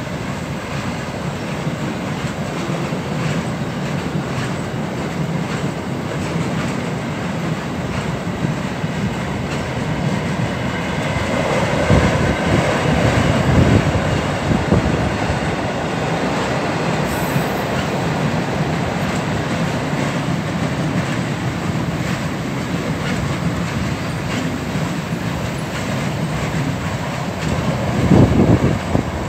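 Container flat wagons of a long freight train rolling past, their steel wheels clattering over the rail joints in a steady run of clicks. It gets louder twice, around twelve seconds in and near the end.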